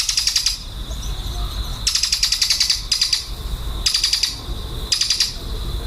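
Lovebird chattering in about five short, rapid rattling bursts, each under a second long, with a steady high-pitched tone running underneath.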